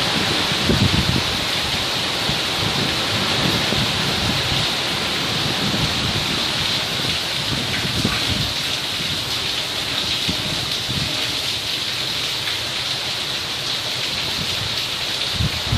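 Heavy rain falling steadily as a constant hiss during a thunderstorm, with low rumbles of thunder, strongest about a second in and again near the end.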